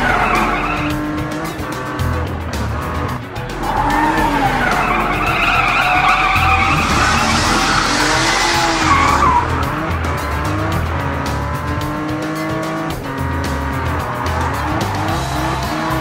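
Cartoon race-car engine sound effects revving, rising and falling in pitch, with a tyre screech about seven seconds in lasting a couple of seconds. Background music with a steady beat plays underneath.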